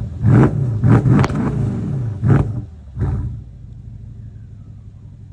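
Mercedes S63L AMG's M157 twin-turbo V8 blipped about five times in quick succession, each rev rising and falling sharply, then settling back to a steady idle rumble a little over three seconds in.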